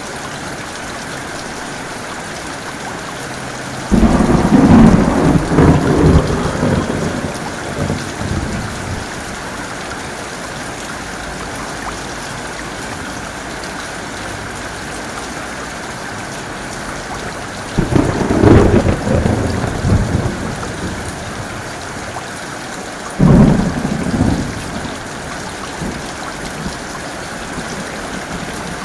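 Steady heavy rain with thunder. A sudden thunderclap about four seconds in rumbles on for several seconds. A second peal comes around eighteen seconds and a shorter, sharp one around twenty-three seconds.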